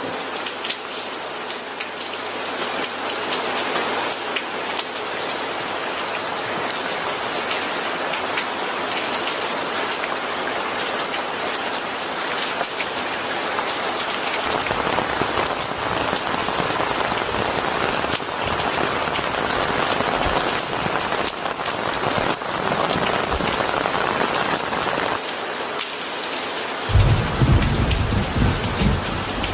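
Steady rain falling with many fine drop impacts. Near the end a low rumble of thunder comes in.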